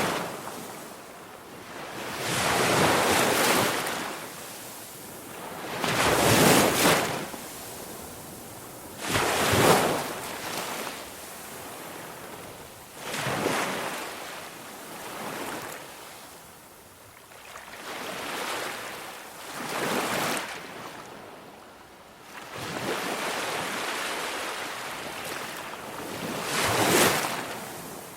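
Ocean waves washing in and receding, one swell about every three seconds in an uneven rhythm.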